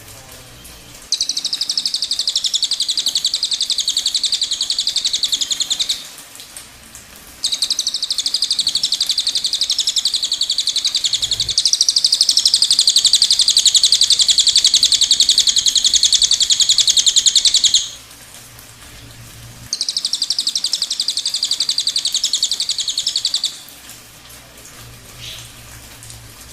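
Cililin bird singing its 'tembakan': long runs of very rapid, tightly packed high-pitched notes. Three runs, the middle one about ten seconds long and loudest in its second half, with short pauses between.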